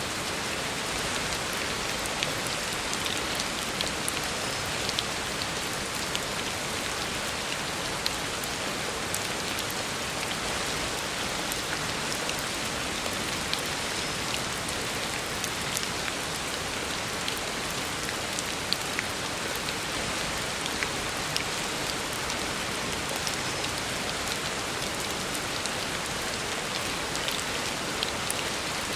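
Heavy rain falling steadily on a road, a dense even hiss with many sharp individual drop splashes.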